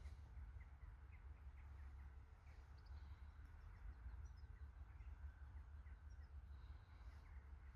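Faint, short, high bird chirps scattered irregularly over a low steady rumble.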